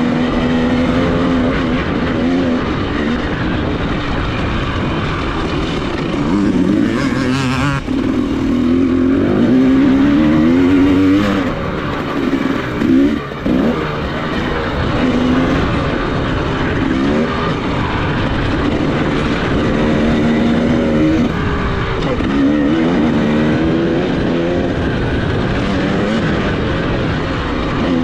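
Dirt bike engine running hard under a rider, its pitch repeatedly climbing and dropping as the throttle is opened and closed through the gears, with a couple of short throttle chops about eight and thirteen seconds in.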